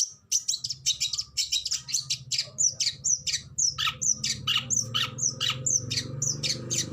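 Oriental magpie-robin singing a rapid-fire string of short, sharp, harsh notes, about five a second, many sweeping downward in pitch.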